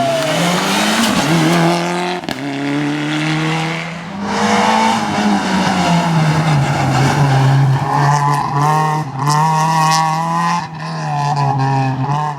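Rally car engine at high revs, its pitch climbing and then dropping several times as it shifts through the gears.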